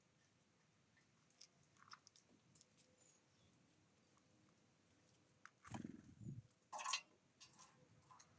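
Mostly quiet birds at a feeder, with faint scattered clicks and taps, a low thump about six seconds in and a brief noisy rustle just after it.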